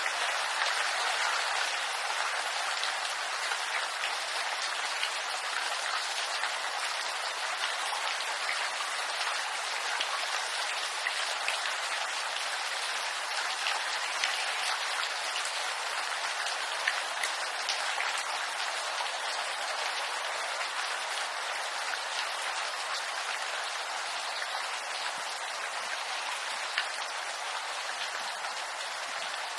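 Steady rain falling on bamboo leaves: an even wash of many small drops, without thunder or music.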